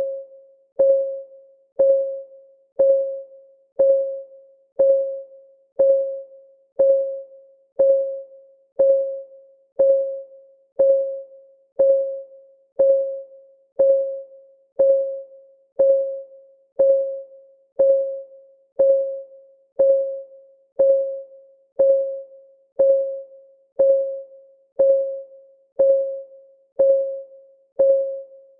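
Clock ticking sound of a countdown timer: a short, pitched tick once a second, each fading quickly, in an even rhythm.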